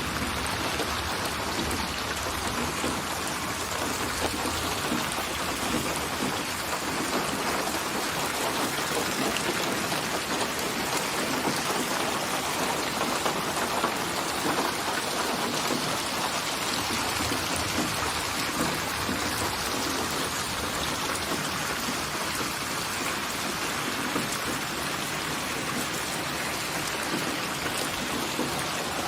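Steady rain falling, an even hiss of countless drops.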